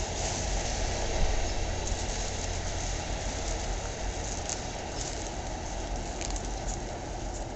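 Five-coach commuter train running through the station, a steady rush of wheels on rail with low rumble and a few faint clicks, easing off slightly near the end.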